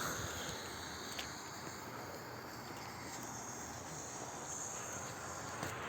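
Faint steady hiss of a lit firework fuse burning down. Just before the end the strobe fountain ignites and a louder, crackling spray of sparks begins.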